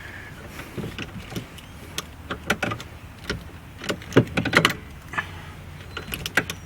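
Irregular clicks and clunks of a stiff automatic transmission shift lever and its linkage being worked back and forth, over a steady low hum.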